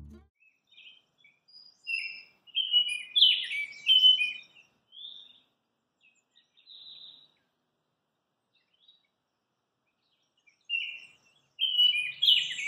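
Baltimore oriole singing: a phrase of short notes about two seconds in, and another near the end.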